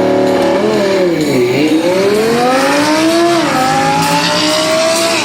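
Sports car engine accelerating hard on a drag strip. Its pitch dips about a second and a half in and climbs again, then drops sharply at an upshift about three and a half seconds in before rising once more.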